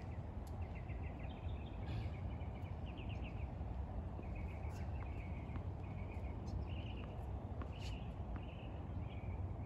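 Small birds chirping in short, rapid trills over a steady low rumble, with a few scattered sharp taps.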